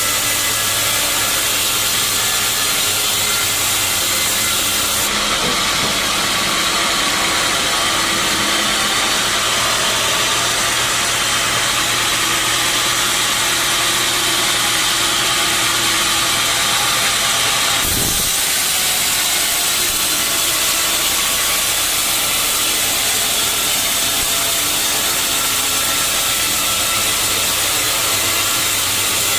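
Sawmill saw and machinery running steadily: a loud, even hiss over a low hum, the mix changing abruptly about five seconds in and again around eighteen seconds.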